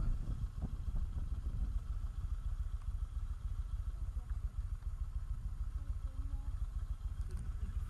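Motorcycle engine running during a ride, a steady low rumble.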